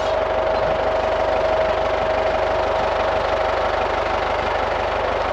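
Tractor engine running steadily at idle, with a steady whine over it that fades out about two seconds in.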